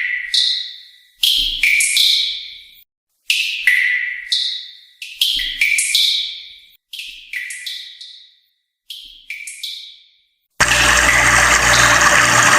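A string of struck, chime-like musical tones, each ringing out and dying away within about a second, with dead silence between them. About two seconds before the end, steady rushing water cuts in suddenly.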